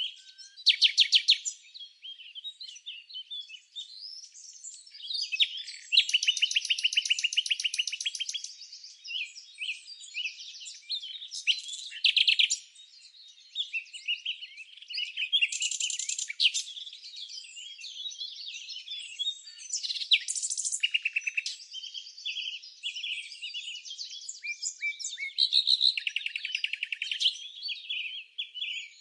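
Birds chirping and singing without pause, several calls overlapping, with fast rattling trills standing out now and then.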